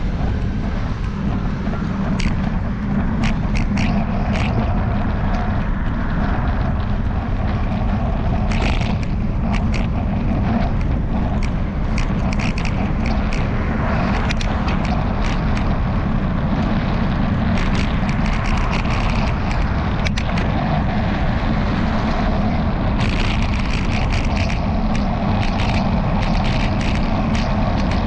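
Steady wind and road rumble on a bicycle-mounted camera, with irregular clicking rattles from the loose camera mount, coming in clusters.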